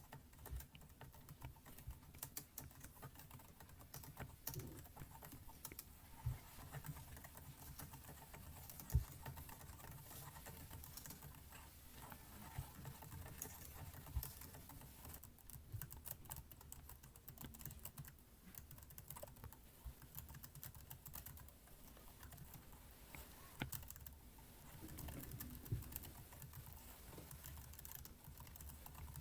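Computer keyboard keys clicking faintly and irregularly, a few presses at a time with short pauses: typing sound.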